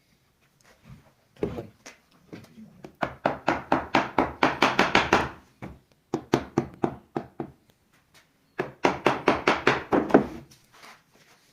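Rapid knocking on wood, about five or six strikes a second, in three runs of a second or two each with short pauses between, as the cricket bat's wood is struck repeatedly during repair.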